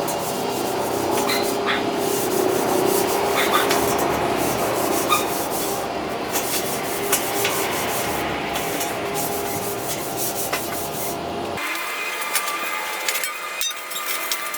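Abrasive sanding or grinding with a power tool: a steady rasping over a running motor's hum. Near the end the sound changes suddenly, the low hum dropping out.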